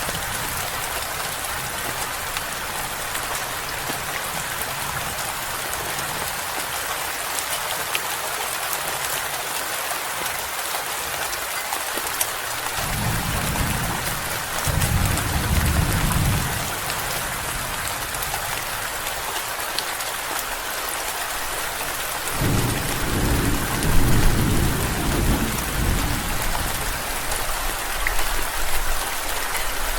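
Steady rain falling, with two low rolls of thunder: one about halfway through and a longer one later on.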